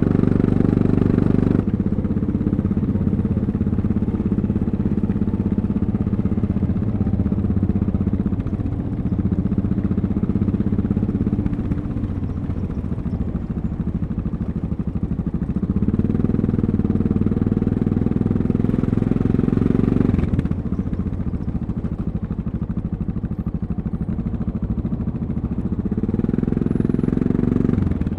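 Yamaha MT-03 660's single-cylinder engine running under way, its note swelling with the throttle opened about halfway through and again near the end, easing back in between.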